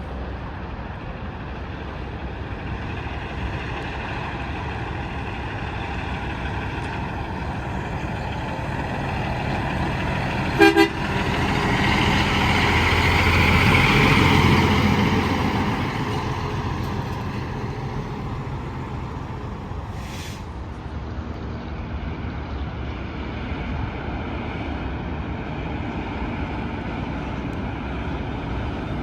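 Steady interstate traffic noise. A semi truck blows two very short horn toots about a third of the way in, then passes close, its engine and tyres swelling loud and fading over a few seconds.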